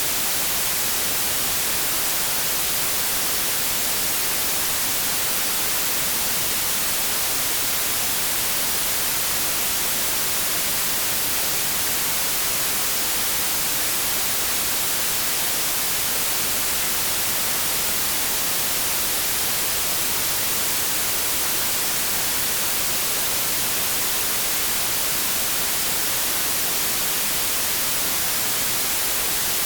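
White noise: a steady, even hiss, strongest in the highs.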